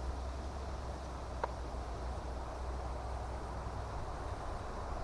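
Quiet outdoor ambience with a steady low rumble, and one light, short clink about a second and a half in.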